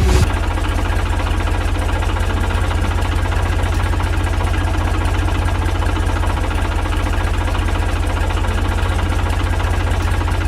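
Tractor engine running steadily at idle, with a rapid low knocking chug.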